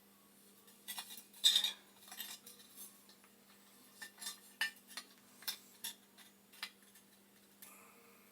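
Metal boiler parts and hand tools being handled: light, irregular clinks and knocks, a dozen or so scattered taps.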